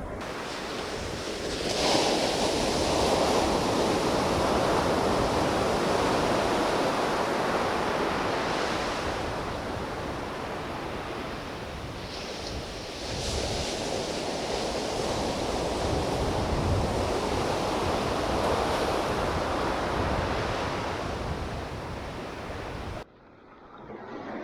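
Ocean surf breaking and washing on a beach, with wind on the microphone. The wash swells about two seconds in and again around thirteen seconds, then cuts off suddenly near the end.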